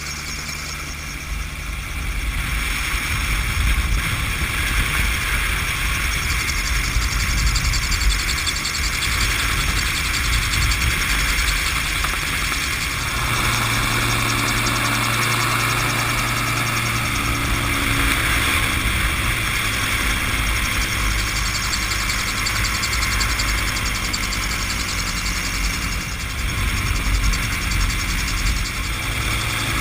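ELA Cougar gyrocopter's engine and propeller running steadily in flight, with a low, uneven rumble of wind on the microphone. The engine note changes about two seconds in and again near the middle.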